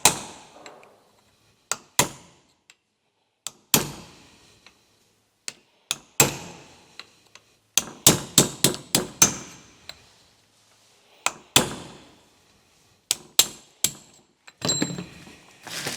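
Hammer striking a steel drift to drive corroded brake pad retaining pins out of a Toyota Celica GT-Four front brake caliper: sharp metallic knocks with a brief ring, one every second or two, with a quick run of about six blows a little past the middle.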